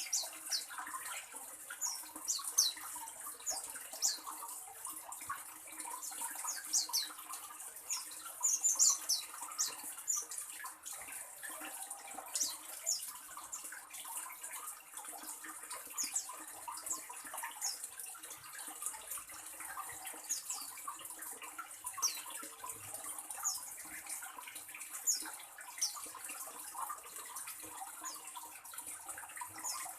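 Birds giving many short, high chirps at irregular intervals, a few notes at a time, over a steady hiss.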